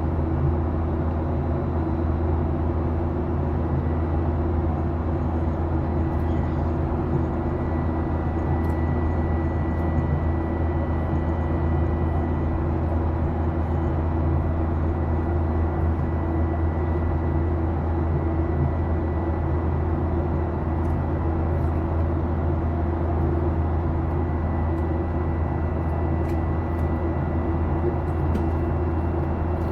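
Steady cabin drone inside a Boeing 737-800: a deep engine hum with a faint high whine over it, holding level throughout.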